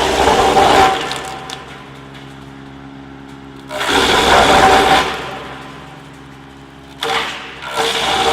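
Disc-type wood chipper running with a steady hum, broken by three loud bursts of chipping as wood is fed in: at the start, about four seconds in, and again about seven seconds in.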